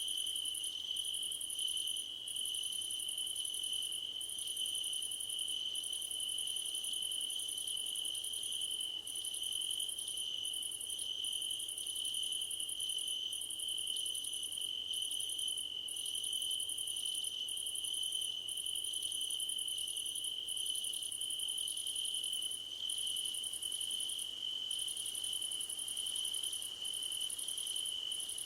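A chorus of crickets trilling: one unbroken high trill, with a higher, shriller trill that stops and starts every second or so.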